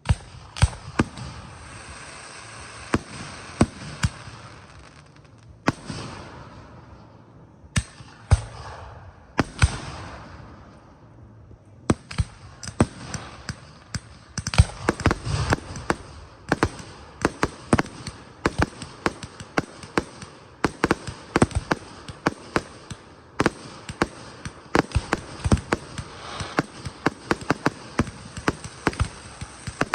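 Fireworks display: aerial shells bursting with sharp bangs, a few spaced seconds apart at first, then a dense run of rapid pops and bangs from about twelve seconds in.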